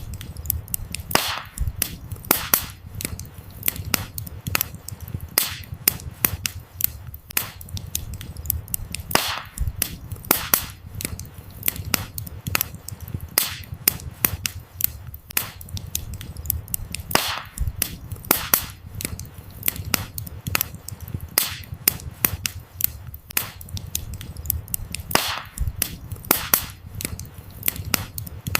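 Wood fire burning with frequent sharp crackles and pops of firewood over a soft low roar of the flames.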